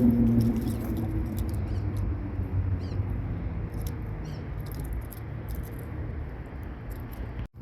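Small wild animals, birds or squirrels, making faint high clicks and a few short chirps, with a brief run of squeaky chirps about three seconds in. A steady low rumble of wind on the microphone runs underneath.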